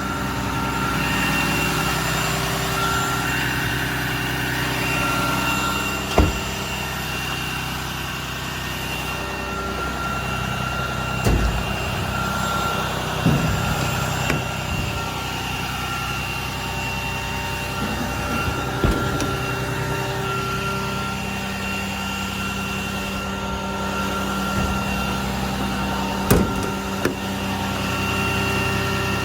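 Ram 5500 service truck's engine idling steadily with the power take-off engaged, broken by several short sharp knocks or clunks.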